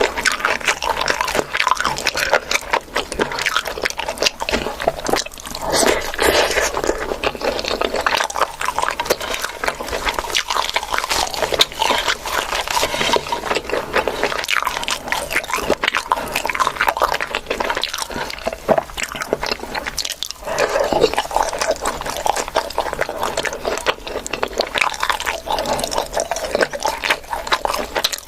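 A person chewing and eating, with wet mouth sounds and smacking as a dense run of small clicks.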